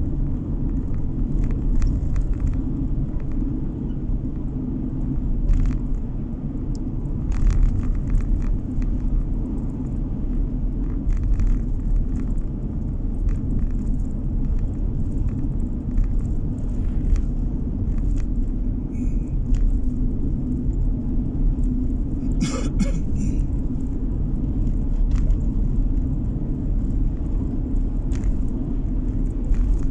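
Car road noise heard from inside the cabin: a steady low rumble of tyres and engine while driving, with scattered small knocks and rattles and a brief louder rattle about 22 seconds in.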